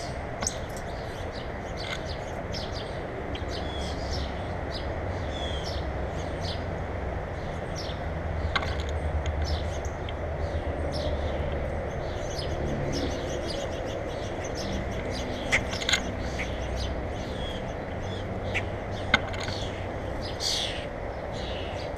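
Small birds chirping repeatedly in short, high calls over a steady low background rumble, with a few sharp clicks or taps.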